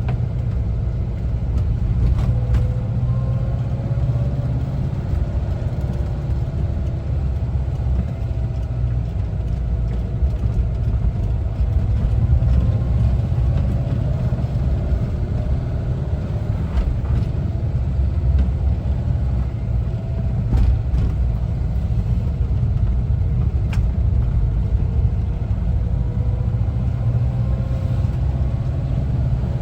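A 1974 Volkswagen Westfalia bus's air-cooled Type 4 flat-four engine running as the bus is driven, over a steady low rumble. The engine note drifts slowly up and down, and there are a few faint clicks.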